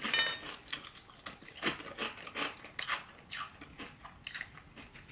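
A person chewing crunchy Flamin' Hot corn snack chips with the mouth close to the microphone: irregular crisp crunches about two a second, growing fainter near the end.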